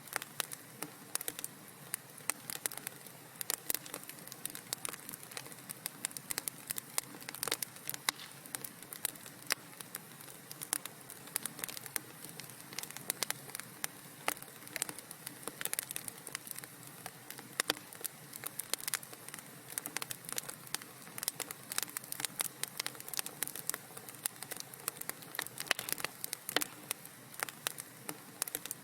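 Wood fire in a fireplace crackling, with many irregular sharp pops and snaps over a soft steady hiss.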